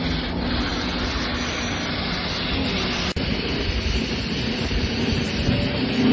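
Performance car engine and exhaust running at a steady level, with a brief break about three seconds in.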